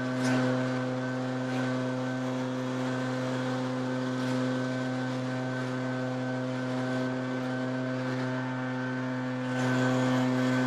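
Two-stroke backpack leaf blower running steadily at full throttle, a constant engine note with a few brief swells, one about a second in and one near the end.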